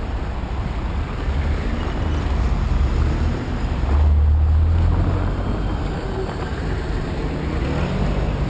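Street traffic: vehicle engines and road noise as a steady low rumble, swelling about four seconds in as a vehicle passes.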